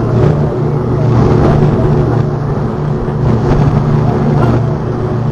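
Patrol boat's engines running steadily under way: a loud, unbroken low drone, with faint voices under it.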